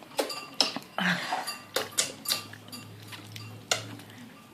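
Tableware clinking and knocking at a meal: a string of sharp separate taps and clinks, irregularly spaced.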